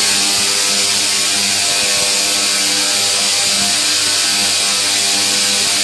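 Tesla coil discharging sparks into the air from a single corona point: a loud, steady electrical buzz with a harsh crackling hiss, starting abruptly and holding unchanged. The high-voltage discharge ionizes the air, and it is strong enough to light nearby fluorescent tubes with no wire.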